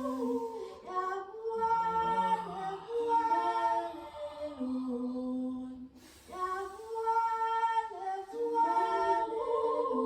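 Wordless female singing in long, held notes that step and glide from one pitch to the next, soft and chant-like, with more than one pitch sounding at once.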